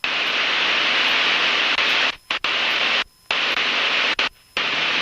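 Aviation radio static: a steady hiss from an open air-band channel between ATC transmissions, cutting out briefly three times near the middle and end.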